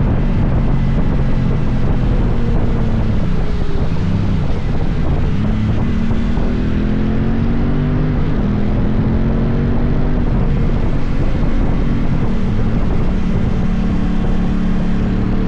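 Motorcycle engine running under way, its pitch falling and rising with throttle and gear changes, with wind noise on the microphone.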